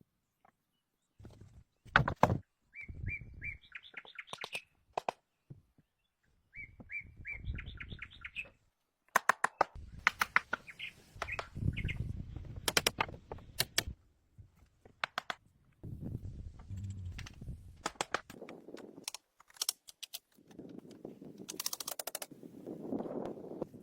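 Bird chirps, including two quick runs of short rising notes, mixed with sharp clicks and dull knocks.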